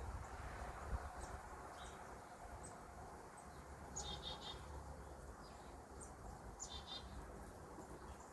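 Small songbirds giving short high chirps, with two brief stuttering calls about four and seven seconds in, over a faint steady low rumble.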